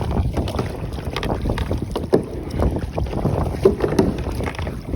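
Wind buffeting the microphone, with water sloshing and slapping against the hull of a drifting pedal kayak on open sea in irregular splashes.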